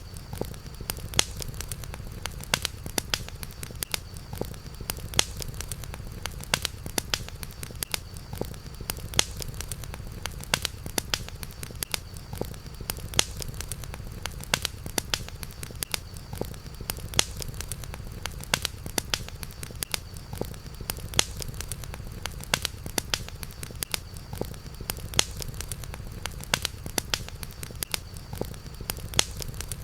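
Campfire crackling: irregular sharp pops and snaps several times a second over a steady low rumble, with a faint steady high tone underneath.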